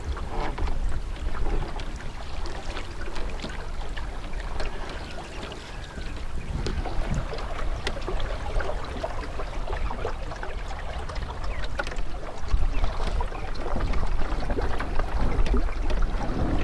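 Wind buffeting the microphone over water lapping and splashing lightly around a small dinghy, with scattered small knocks and drips.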